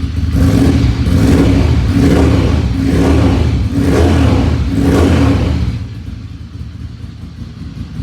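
Ducati Monster 696's air-cooled V-twin breathing through SP Engineering aftermarket end cans, blipped through about five quick revs roughly a second apart, loud. It then drops back to a burbling idle about six seconds in.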